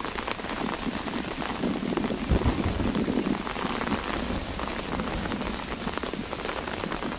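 Steady rain, with many drops ticking on a fabric umbrella held just above the microphone. There is a brief low thud about two and a half seconds in.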